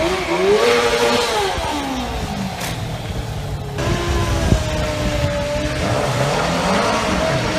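Stunt motorcycle engine revving up and down, its pitch rising and falling several times, with a steadier stretch in the middle.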